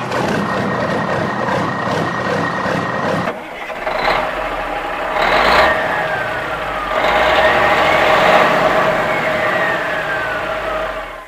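Heavy truck engine running, its sound changing about a third of the way in. Two short hissing bursts follow, and in the second half a whine falls, rises and falls again as the engine works.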